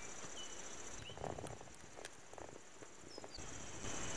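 Birds singing at night: a faint, high, steady trill that drops out for about two seconds in the middle and then returns, with a few short high chirps. A few soft clicks and knocks come in the middle.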